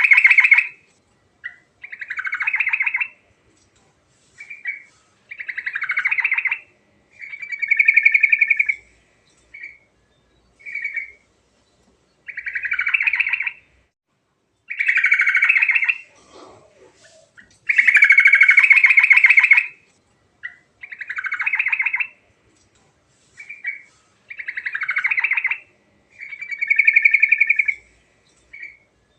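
Yellow-vented bulbul (cucak trucuk) singing: short, rapid phrases of one to two seconds each, repeated over and over with brief pauses between them.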